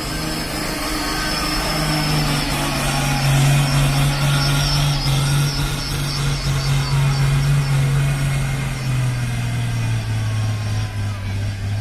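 Heavy truck's diesel engine running, its note dropping in two steps, once about two seconds in and again about nine seconds in.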